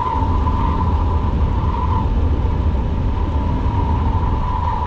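1968 Buick Skylark's engine running under way, a loud steady low rumble with a steady whine that fades about two seconds in and returns near the end. The engine is overheating, with coolant boiling out of the radiator because no fan is fitted.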